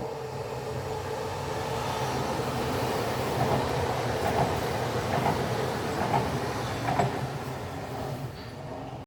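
A train running past, with a steady rumble and rhythmic wheel clacks about once a second as the wheels pass over rail joints.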